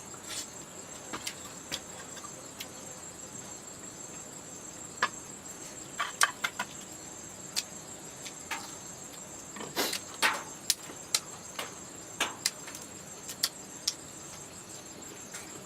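Insects trilling steadily in a high, finely pulsing tone, with scattered sharp clicks and snaps, the loudest about six and ten seconds in.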